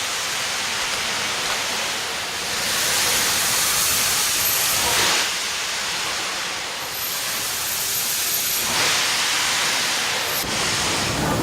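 Steam locomotive letting off steam: a loud, steady hiss that swells louder twice, for about three seconds and then for about a second and a half.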